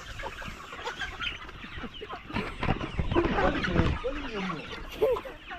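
A flock of two-month-old chickens clucking and chirping, many short calls overlapping, busiest about halfway through.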